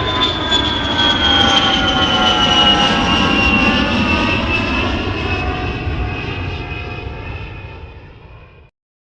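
Jet aircraft passing by: an engine whine that falls steadily in pitch over a rumble, fading out and then cut off abruptly near the end. It sounds like a jet flyby sound effect edited in.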